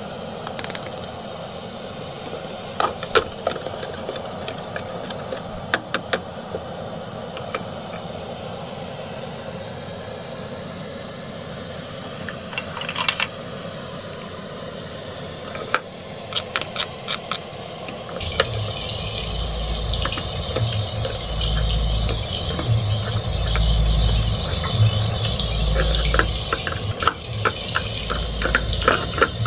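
Plastic toy kitchen pieces clicking and tapping as they are handled, then, about two-thirds of the way in, the toy stove under the toy frying pan starts a sizzling hiss with a low hum that pulses about every two seconds, while the plastic spatula keeps tapping.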